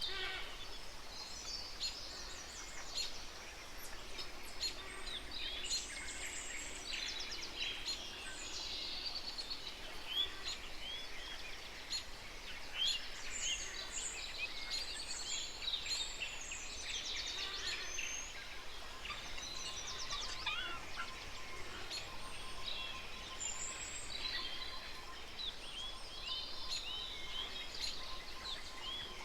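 Many small birds chirping and twittering together, a dense chorus of short high calls and quick swoops that overlap throughout. A faint steady tone joins about two-thirds of the way in.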